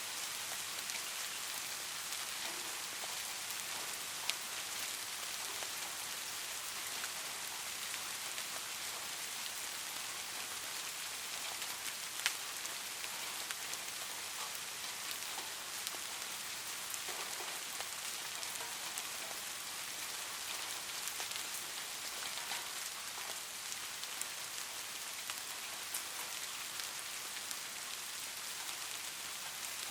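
Light rain falling steadily: an even hiss with scattered small drop ticks. A louder single drop strikes about 4 seconds in and again about 12 seconds in.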